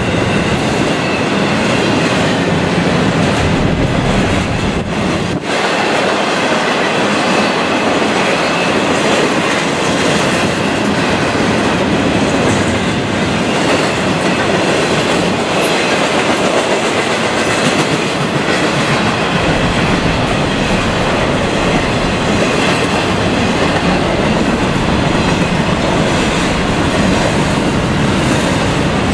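Loud, steady rolling noise of a double-stack intermodal freight train's container cars passing close by, their steel wheels running on the rails.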